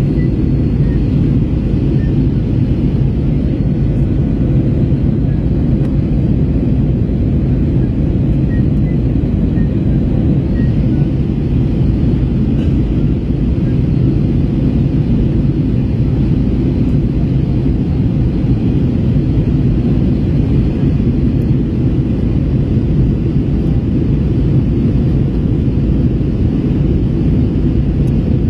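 Steady low drone of an Airbus A321 heard from inside the cabin in flight: engine and airflow noise, even and unbroken.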